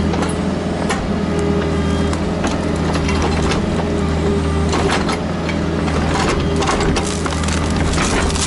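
Kubota KX121-3 mini excavator's diesel engine running steadily under work, with repeated short clanks, knocks and cracks from the bucket and attachments working dirt, stone and roots.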